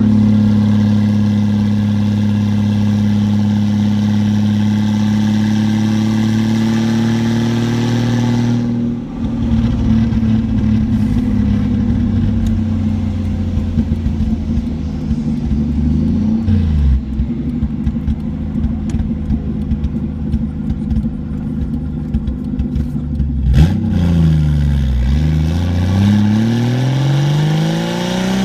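A car engine running, holding a steady pitch for several seconds. About nine seconds in it dips briefly, then its pitch rises and falls as it revs up and down, with a deep drop and climb late on.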